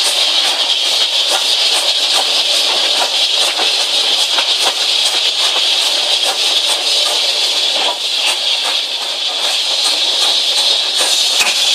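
Steam locomotive giving off a steady hiss of steam, with faint light ticks through it.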